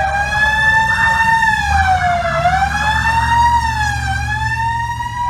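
Siren of a vintage emergency vehicle wailing, its pitch rising and falling slowly, over the low rumble of vehicle engines.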